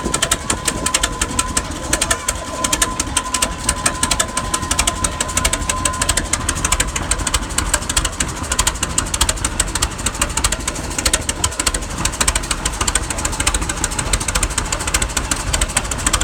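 Minneapolis tractor engine running steadily, a rapid even firing beat throughout. A thin high whine sounds with it and stops about six seconds in.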